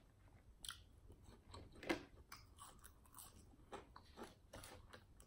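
Faint chewing of fried chicken wings: a scatter of short, irregular mouth clicks and smacks, the loudest about two seconds in.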